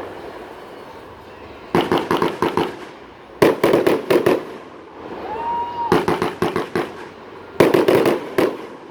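Aerial fireworks going off in four quick clusters of sharp bangs, each cluster a rapid string of reports, with a brief whistling tone between the second and third.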